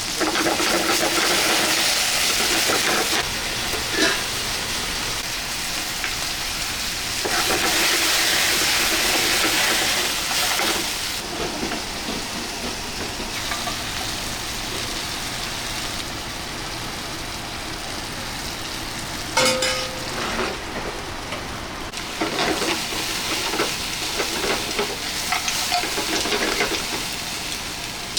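Kitchen food-preparation sounds: a steady hiss, louder in two stretches of a few seconds near the start. Later comes one sharp knock, then a run of irregular clicks and light knocks from utensils.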